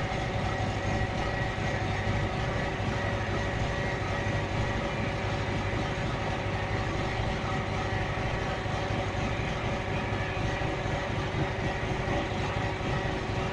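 Scania 112 truck's diesel engine idling steadily.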